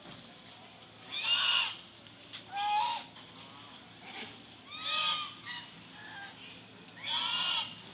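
A large bird giving loud, harsh honking calls: four short calls spread a second or two apart.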